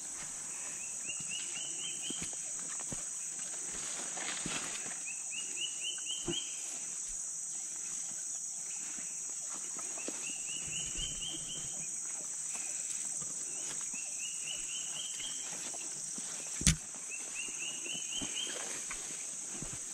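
Jungle bird singing a short phrase of quick notes that step upward in pitch, repeated about every four seconds, over a steady high insect drone. Footsteps on the trail and one sharp knock about three-quarters of the way through.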